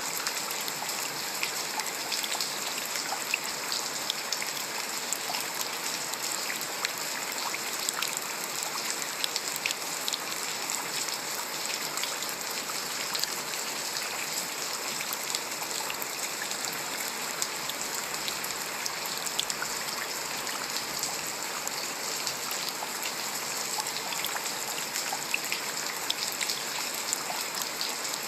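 Steady rain, with many single drops landing close by as short sharp ticks over an even hiss.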